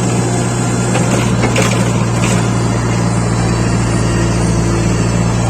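Diesel engine of a backhoe loader or tractor running steadily at constant speed, with a few faint knocks about one and a half to two and a half seconds in.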